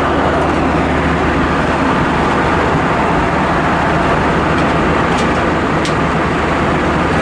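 Steady cabin noise inside an Airbus A320 in flight: the even rush of air over the fuselage with the hum of its IAE V2500 engines, unchanging throughout. Two faint ticks come about five and six seconds in.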